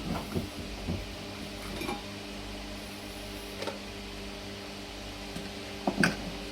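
Small clicks and knocks of battery cables and terminal hardware being handled and fitted, over a steady hum; two sharper clicks about six seconds in are the loudest.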